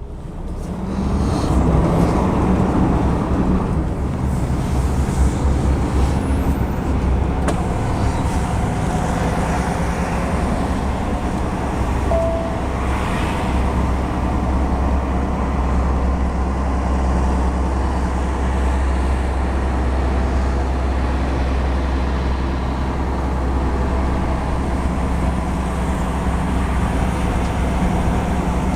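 Articulated lorry on the move: diesel engine running and road noise, a steady low rumble that swells over the first couple of seconds and then holds steady. A short beep sounds about twelve seconds in.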